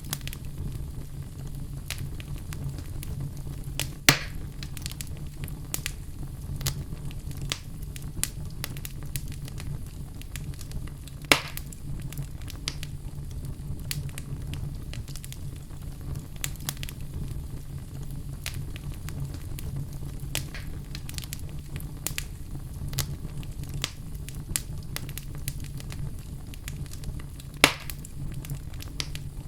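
Wood fire burning in a fireplace: a steady low rumble with constant small crackles. Three sharper, louder pops come about four seconds in, about eleven seconds in, and near the end.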